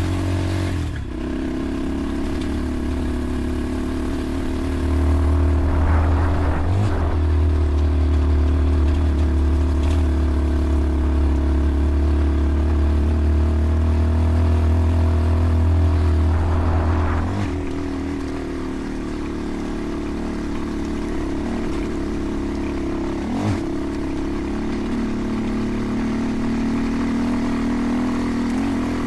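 Dirt bike engine running while riding a trail, the engine note changing briefly a few times as the throttle and gears change, and louder through the middle stretch.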